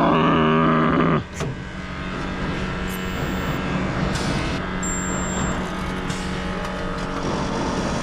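Resistance spot welder buzzing loudly through a weld, cutting off suddenly about a second in. A steady lower hum and a few sharp clicks follow.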